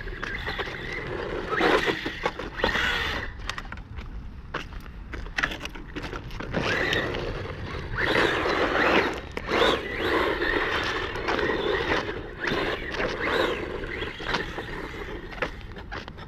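A small 1/18-scale brushless RC truck driving, its motor surging in repeated bursts of throttle and its tyres rolling and scraping over rough ground, with scattered knocks as it bumps along.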